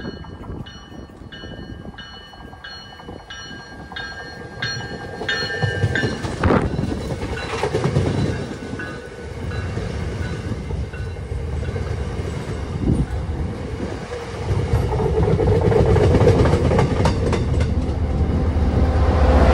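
MBTA commuter rail train approaching and passing close by. A bell rings steadily, about one and a half strokes a second, during the first six seconds as the train nears. The locomotive then goes by and the bilevel coaches rumble past, wheels clacking over the rail joints and getting louder near the end.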